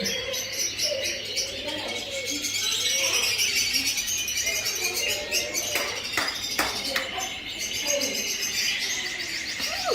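Many caged birds calling together in a dense, continuous chirping and twittering chorus, with low cooing of pigeons beneath. A few sharp clicks come about six to seven seconds in.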